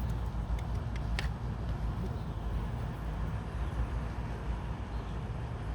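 Steady low outdoor rumble, with one sharp click about a second in.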